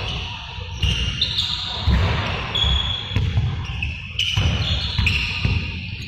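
Balls bouncing on a hard floor, a run of dull thuds several times a second, with high squeaky tones coming and going over them.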